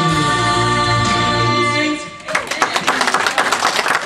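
A gospel vocal group holds the final chord of a song, which ends about two seconds in; the congregation then breaks into applause.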